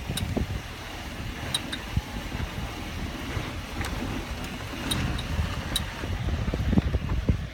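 Car with a sharp knock that appears when the accelerator is pressed hard: several short knocks at irregular spacing over a low, uneven engine rumble. The cause is not known to the owner.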